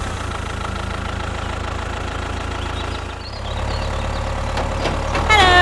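Mini tractor engine idling with a steady low putter, which grows a little louder about three seconds in.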